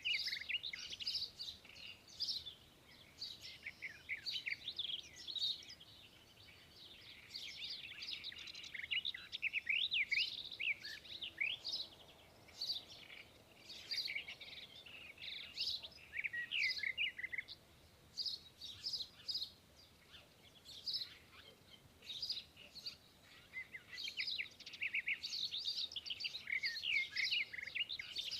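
Birds chirping and calling: many short, high chirps and quick up-and-down whistled notes in dense runs, with brief lulls between them.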